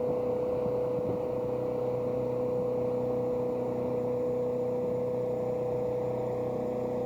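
Motorboat engine running at a steady speed, a constant unchanging drone over a steady rushing noise.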